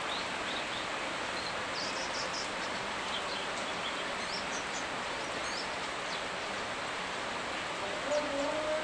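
Steady rain hiss with short, high bird chirps over it. Near the end a wavering, siren-like tone starts.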